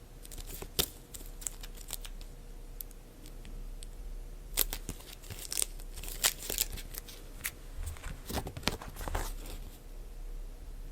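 Packaging being torn open and crinkled by hand: irregular tearing and crackling rustles, busiest in the middle and again near the end.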